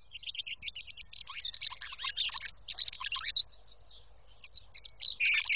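Songbird singing a rapid run of high chirps and trills for about three and a half seconds, then a few more chirps near the end.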